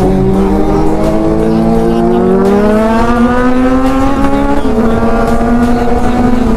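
Superbike engine pulling with its pitch rising slowly and steadily, then dropping a step about four and a half seconds in and holding level.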